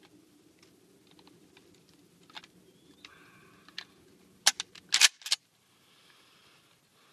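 A few light clicks, then a quick cluster of loud, sharp clicks about four and a half to five seconds in, after which the sound cuts out abruptly.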